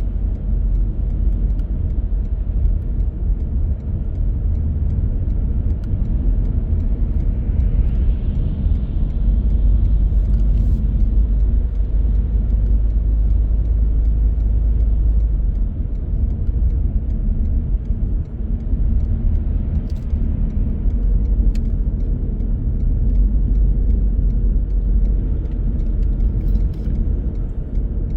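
Car driving on the road: a steady low rumble of engine and tyre noise, with a faint rising whine about eight seconds in.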